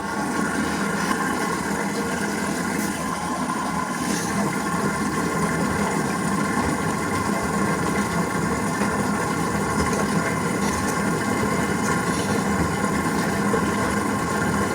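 LG washing machine running, a steady motor and drum hum with no change.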